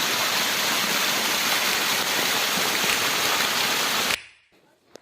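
Steady rush of fast-flowing water that cuts off suddenly about four seconds in.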